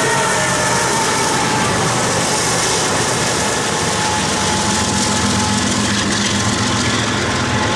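BNSF double-stack freight train passing, with faint thin wheel-squeal tones fading in the first seconds. A steady engine hum takes over from about four seconds in.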